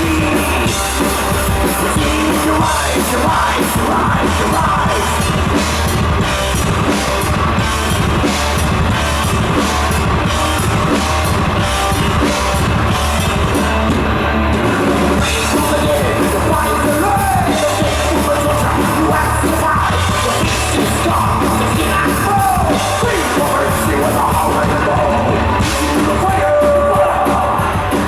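Thrash metal band playing live: loud, distorted rock instruments and drums with yelled, sung vocals.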